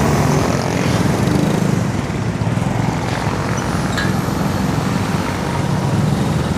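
Steady road traffic: motor vehicle engines running close by over a continuous rush of road noise.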